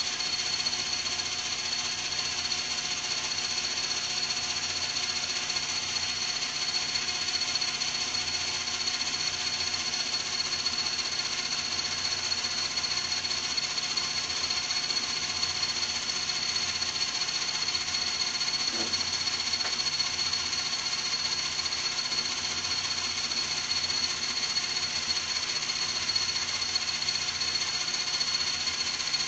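Old metal lathe running steadily, its motor and gearing giving a constant whine and hum that is a little loud.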